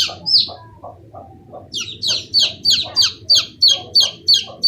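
Chicks peeping loudly in quick, regular calls, about three a second, with a pause of about a second near the start.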